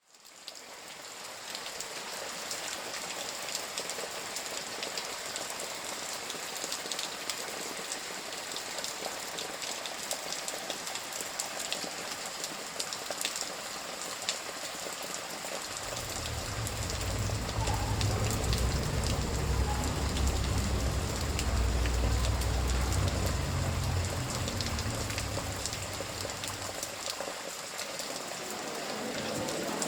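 Steady rain falling, with many small drop ticks, fading in at the start. About halfway through a deep low rumble joins it for roughly ten seconds, then dies away.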